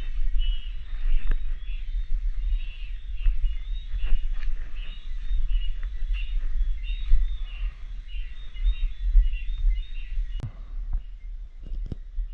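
Cicadas calling, a pulsing high buzz that keeps on steadily, over a low rumble on the microphone, with a couple of sharp knocks near the end.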